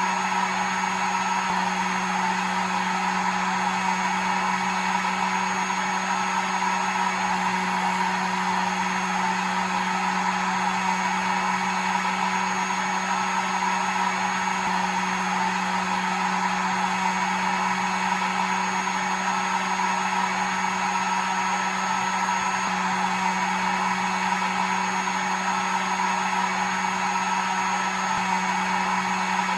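Hair dryer running steadily: a constant blowing rush with a low motor hum and a thin high whine, unchanging throughout.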